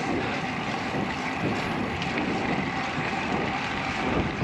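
Wind noise on the microphone of a bicycle being ridden: a steady rushing with a low rumble.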